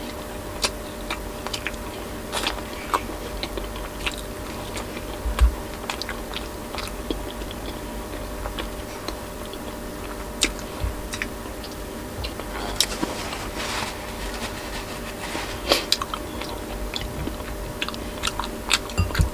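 Close-up mouth sounds of a person eating boiled pork and vegetables: chewing with wet smacks and irregular sharp clicks and crunches, over a steady background hum.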